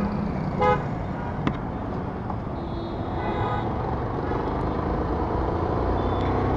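Road traffic noise heard from a motorcycle in a jammed city street, with engines running low and steady. Short beeps sound about a second in and again around three seconds.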